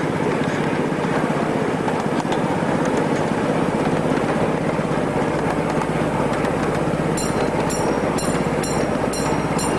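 Ride-on miniature railway train running, a steady rumbling noise. A regular high-pitched chirping or ringing starts about seven seconds in, about two beats a second.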